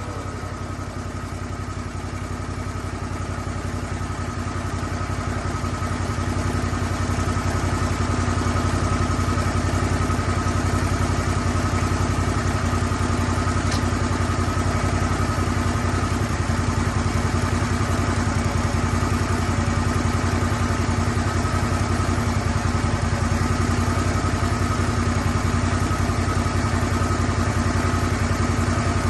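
Lucas Mill 10-30 swing-blade sawmill's engine running steadily, getting gradually louder over the first several seconds and then holding steady.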